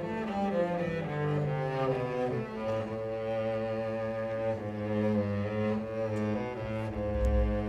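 Solo cello with a string orchestra playing classical music. A falling run of notes leads into long held low notes under sustained upper strings.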